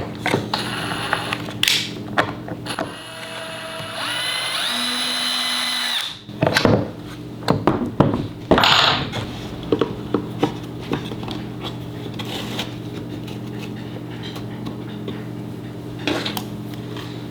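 A power tool motor spins up and runs steadily for about two seconds, with knocks and clatter of tools being handled before and after it, over a steady low hum.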